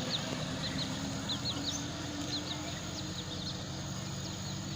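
Birds chirping: many short, high, rising chirps, several a second, over a steady low hum.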